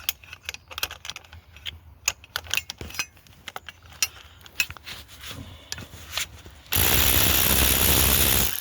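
Metal tools and engine fittings clinking and rattling in a string of sharp clicks. Near the end comes a loud, steady hissing rush of about two seconds that starts and stops abruptly.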